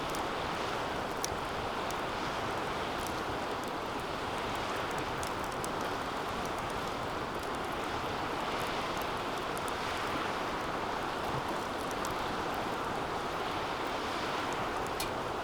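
Wood fire burning in a DOD Mecha-Moe Fire 2 fire pit: a steady rushing sound with frequent small crackles and pops scattered throughout.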